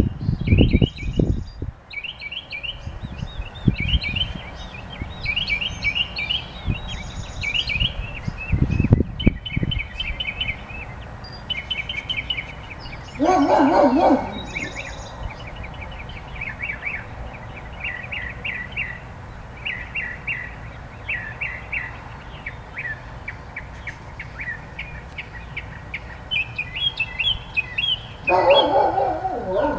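Songbird singing, repeating short high chirping phrases about once a second, with two louder, lower calls about thirteen seconds in and near the end. A few low thumps near the start and about nine seconds in.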